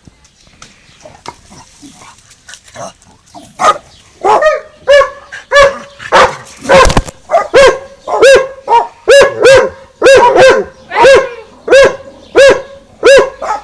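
Dogs barking at each other. After a quiet first few seconds the barks begin about four seconds in and settle into a steady run of about two barks a second.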